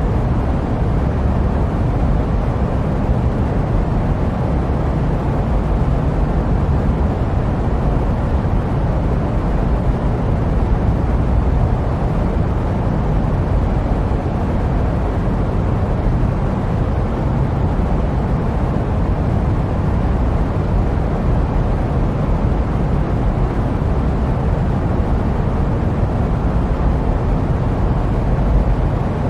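Steady jet airliner noise used as white noise: an even, unbroken rumble, heaviest in the low end, with a softer hiss above it.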